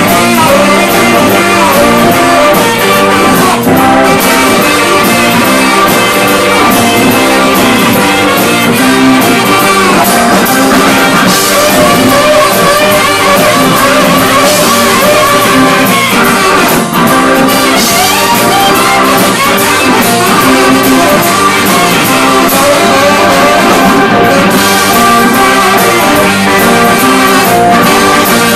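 Live rock band playing a loud instrumental break of the song with no vocals.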